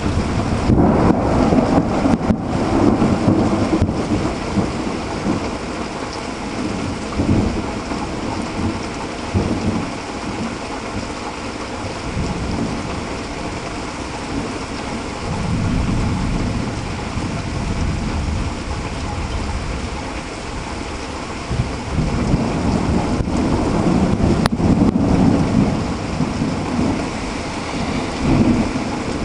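Thunderstorm: steady heavy rain with rolling thunder rumbling low, swelling near the start and again late on.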